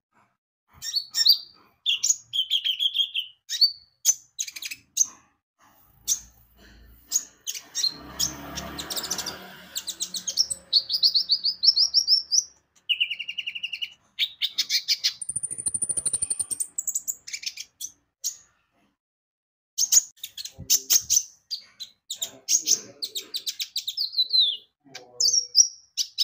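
A kolibri ninja (konin) sunbird singing energetically: rapid high chirps, fast trills and short rising and falling phrases, broken by a pause of about two seconds late on. A brief muffled rustle sounds around eight seconds in.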